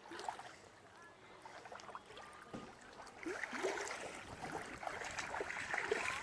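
Pond water splashing and sloshing in short, irregular bursts, growing busier and louder about three seconds in.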